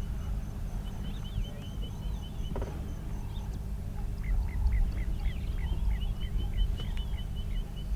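Several wild birds calling over a steady low rumble. One gives a fast run of short notes, and about halfway through another gives a series of about seven short falling notes.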